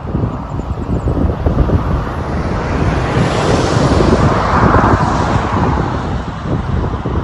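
Wind buffeting the microphone over road traffic noise, with a vehicle passing that swells up and fades about four to five seconds in. No siren tone is heard.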